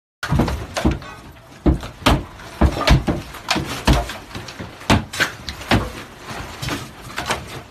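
A series of irregular knocks and bangs, about one or two a second, some with a heavy low thud.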